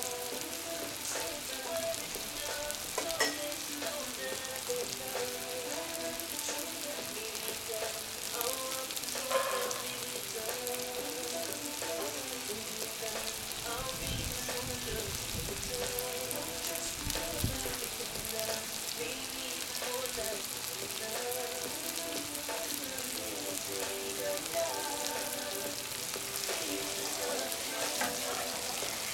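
Meat and shredded carrots frying in hot oil in a cast-iron kazan, a steady sizzle with a few sharp pops.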